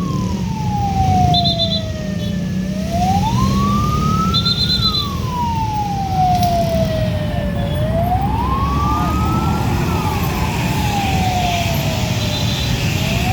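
A wailing siren repeats about every five seconds, each cycle a quick rise followed by a long slow fall in pitch. Under it is the steady low rumble of heavy truck engines, and short high beeps come a few times.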